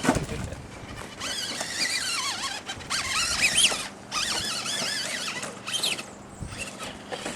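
Electric motors of radio-controlled trucks whining, the pitch rising and falling repeatedly with the throttle, with short let-offs about four and six seconds in.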